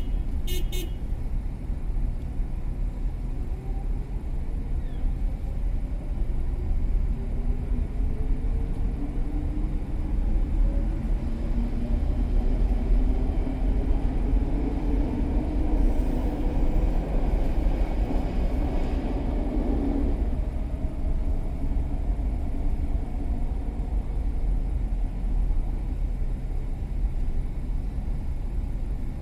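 Car driving on city streets, with a steady low road rumble. From about six seconds in, a vehicle accelerates with a slowly rising engine tone that grows louder and cuts off about twenty seconds in.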